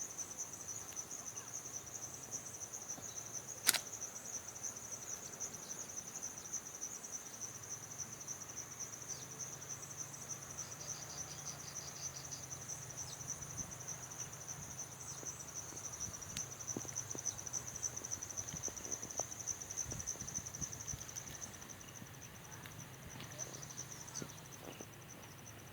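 Crickets chirping in a continuous, high, finely pulsed trill, with one sharp click about four seconds in.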